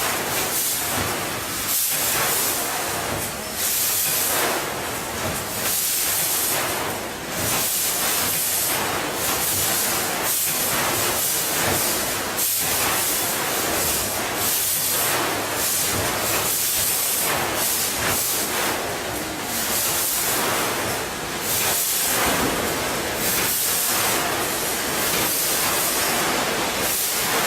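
Peanut packaging machine running: a steady hiss with short, recurring dips roughly every second or two as it cycles.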